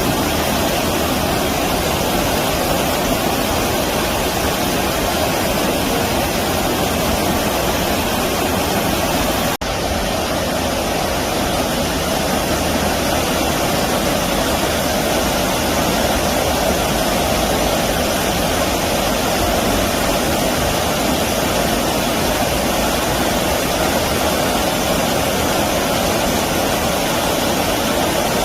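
Stream water rushing steadily, a loud, even noise, with a momentary break about ten seconds in.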